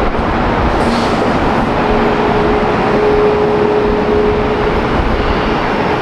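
Jet airliner engines running loud and steady: a continuous rush of engine noise with a steady hum through it.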